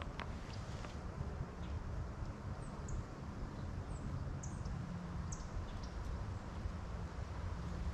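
Wind rumbling on the microphone, with a bird giving a few short, high, falling chirps in the middle.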